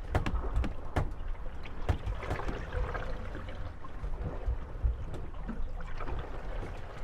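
Moored wooden gondolas rocking on the waves and knocking against each other: several sharp knocks in the first two seconds and a drawn-out creak around three seconds in, over water lapping at the hulls.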